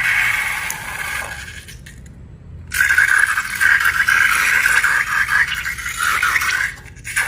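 Scraping and rattling, in two spells: a short one at the start, then a longer, steady one from about three seconds in until just before the end.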